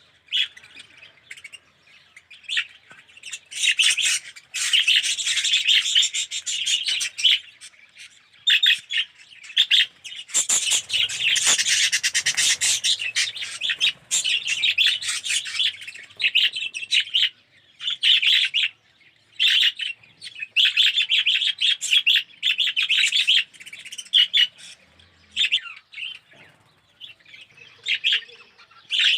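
A flock of budgerigars chattering and warbling together in an aviary, in bouts of a second or two with brief lulls.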